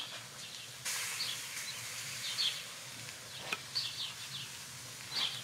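Birds chirping now and then in short high calls over a steady hiss that comes up about a second in, with a single sharp click about three and a half seconds in.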